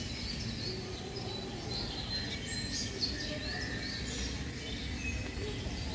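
Small birds chirping on and off, many short high calls, over steady low outdoor background noise.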